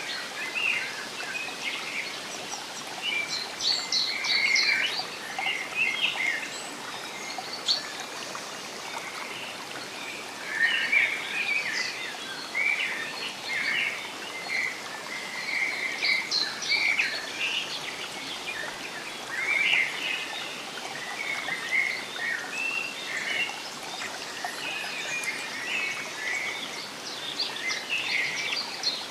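Several songbirds chirping and singing in short, overlapping phrases over a steady background hiss of running water.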